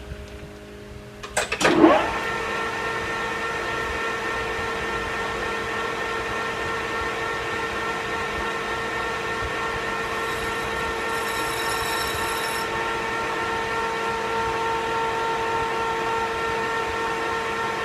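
Metal lathe starting up with a clunk about two seconds in, then running steadily with an even motor and gear hum and whine. A faint high tone joins for a couple of seconds in the middle.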